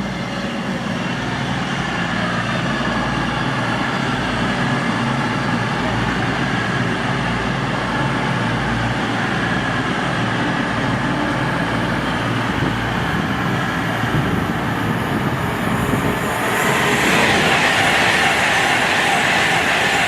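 A train running past on the line: continuous running noise with a low hum, getting louder about sixteen seconds in as a rushing sound comes in.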